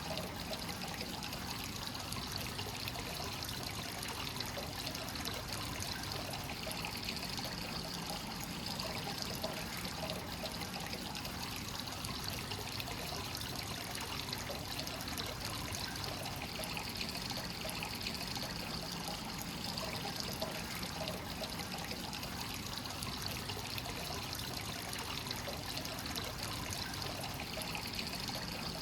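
Hot spring source water pouring steadily and continuously into a bath, an even trickling and splashing flow.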